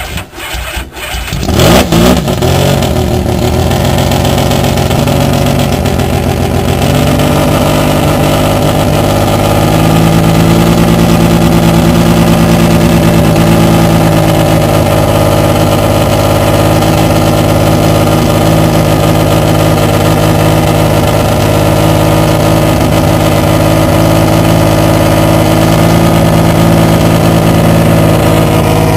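Mazda rotary racing engine of a Fuji Grand Champion-spec MCS race car starting up: it catches about two seconds in, then runs steadily and extremely loud at a fast idle, its pitch shifting slightly around seven seconds in.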